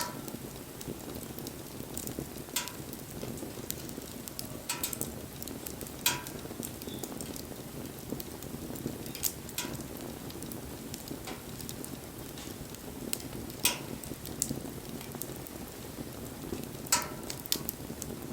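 Wood bonfire burning: a steady low rush of flame with sharp crackles and pops every few seconds.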